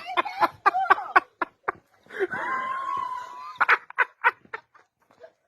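A person laughing hard in quick, cackling bursts, with a long high-pitched wavering squeal in the middle, fading away near the end.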